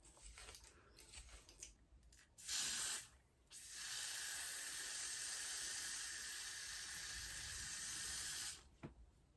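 A spray hissing: a short spray of about half a second, then one long steady spray of about five seconds that cuts off near the end.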